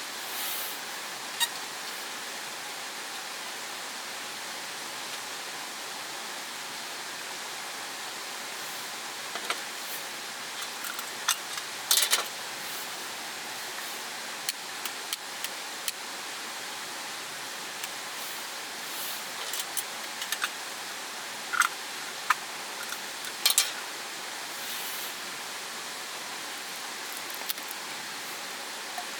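Mountain stream rushing steadily, with scattered short clicks and taps over it, a few of them louder.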